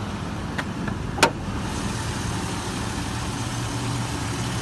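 Idling engine of a 2003 Chevrolet Silverado 1500 pickup, a steady low hum. A sharp click comes about a second in.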